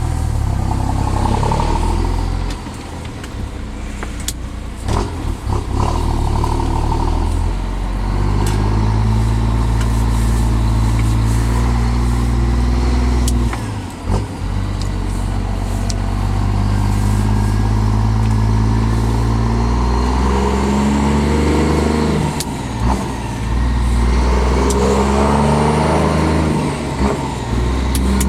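Scania R420 truck's diesel engine heard through a custom loud-pipes exhaust, running under load with the note rising and falling, and a brief drop about halfway through.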